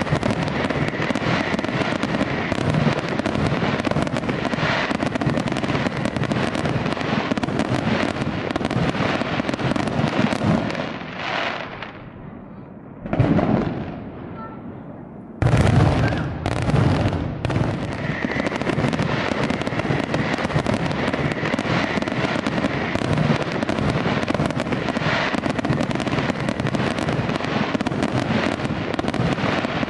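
Fireworks display: a dense barrage of bangs and crackling from aerial shells. About halfway through it drops to a lull broken by one loud bang, then the barrage starts again suddenly.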